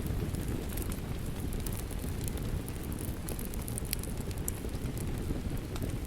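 Steady rain with a low rumble, mixed with the scattered sharp pops and crackles of a wood fire burning in a fireplace.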